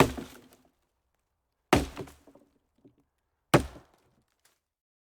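Three sharp impacts, a little under two seconds apart, each dying away quickly with a few small clatters after it.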